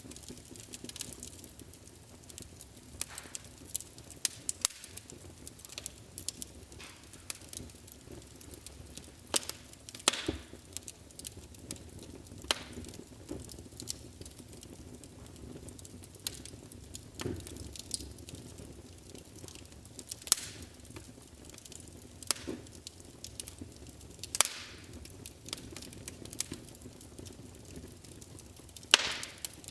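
Wood fire in a fireplace crackling: a low steady hiss with irregular sharp pops and snaps, a few louder ones about ten, seventeen, twenty, twenty-four and twenty-nine seconds in.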